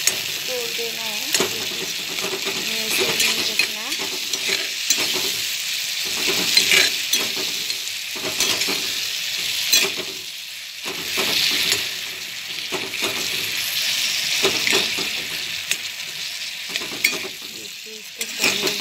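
Chopped tomato, onion and chilli frying in hot oil in a pan, a steady sizzle, while a metal spatula stirs and scrapes the mixture with frequent short clicks against the pan.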